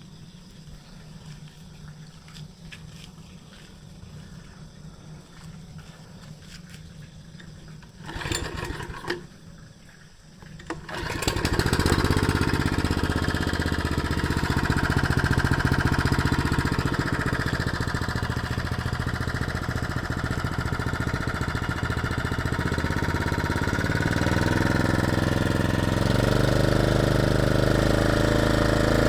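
Small petrol engine of a GNP-4000 engine-powered lawn mower: a faint low hum, two short noises about eight and nine seconds in, then the engine comes up to a loud steady run about eleven seconds in. Its speed rises a little near the end.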